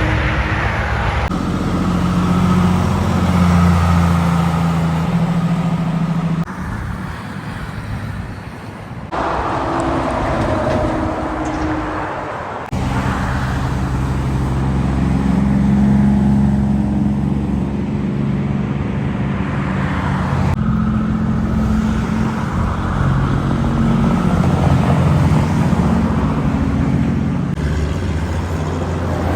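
Diesel engines of haulage lorries running and driving by, heard in several short clips joined by abrupt cuts.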